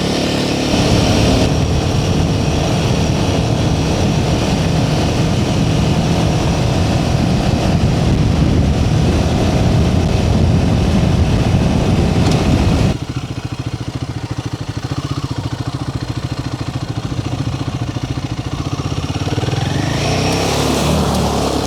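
Royal Enfield Himalayan 450's single-cylinder engine running under load as the motorcycle rides a dirt track. About 13 s in the throttle eases and the engine drops to a quieter, slower, even beat. A rushing noise rises near the end.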